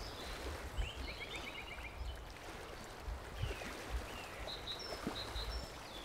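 Small birds chirping and calling over faint, steady outdoor background noise with a low rumble: a quick run of about eight chirps about a second in, then a few short, high whistles near the end.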